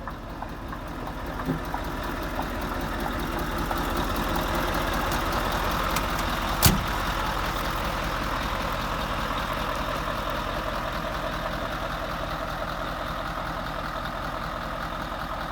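Scania R520's 16-litre V8 diesel idling steadily, growing a little louder over the first few seconds. A single sharp click comes about six and a half seconds in.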